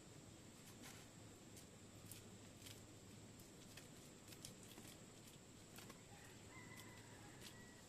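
Near silence: faint, irregular light clicks over a steady high hiss, with a faint thin tone near the end.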